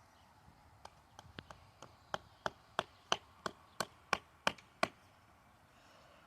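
A tent peg being hammered into the ground: about fourteen sharp strikes at roughly three a second, growing louder, then stopping about five seconds in.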